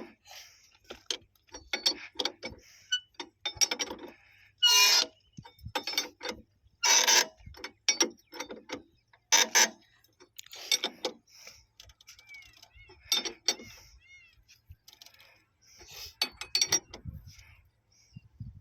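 Hand tools working on metal railway point-machine fittings: irregular clanks and knocks with a few short scraping strokes, and brief squeaks about two-thirds of the way through.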